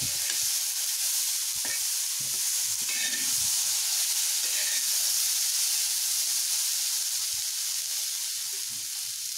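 Corn kernels sizzling with a steady high hiss on a hot iron tawa. A metal spatula stirs and scrapes them a few times in the first few seconds.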